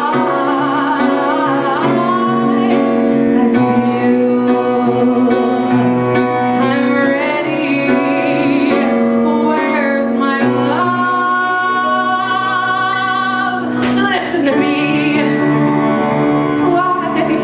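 A woman singing a slow ballad live, holding long notes with a wavering vibrato over instrumental accompaniment.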